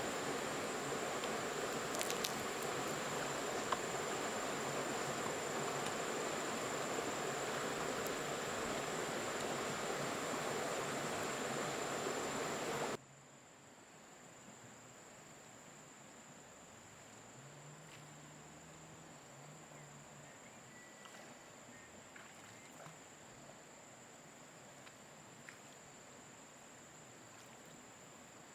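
Jungle ambience with a steady high insect trill. For about the first half a loud, even rushing noise, like water or rain, covers everything, then cuts off abruptly, leaving quieter forest background with the trill still going.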